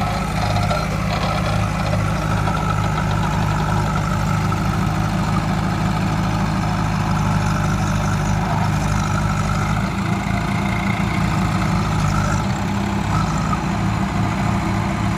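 A heavy diesel engine running steadily at low revs.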